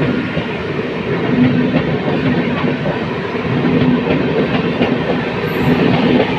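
MEMU electric train running on the track: a steady rumble with wheels clattering over the rails.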